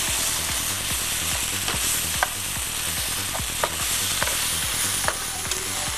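Fried baby corn being stirred into Schezwan sauce in a hot non-stick pan: steady sizzling, with a metal spoon clicking against the pan several times.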